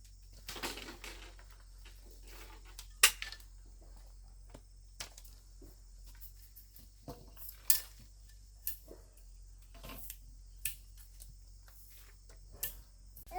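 Scattered sharp clinks and knocks of hard objects being handled, a dozen or so at irregular intervals, the loudest about three seconds in, over a low steady hum.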